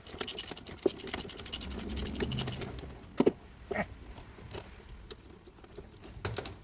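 Hand ratchet wrench clicking quickly as it is swung on a screw, a fast even run of clicks for about three seconds, followed by a few single clicks and knocks of the tool.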